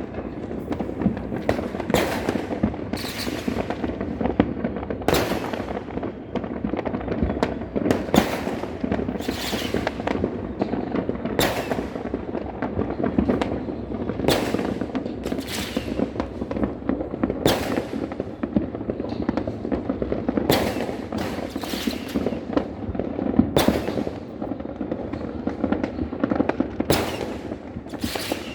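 Fireworks and firecrackers going off without pause: a dense crackle under sharp louder bangs about once a second.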